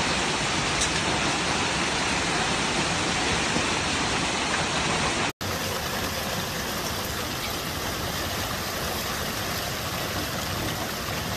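Heavy storm rain pouring down, a steady rushing noise. The audio drops out for an instant about five seconds in and resumes with a similar downpour.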